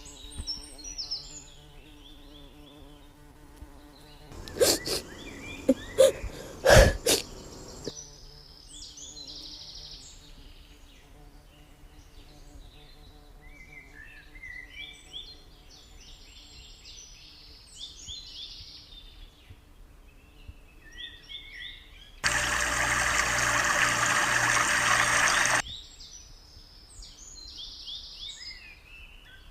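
Small birds chirping in short, repeated calls, with a few loud knocks about five to seven seconds in and a loud burst of hissing noise lasting about three seconds near the end.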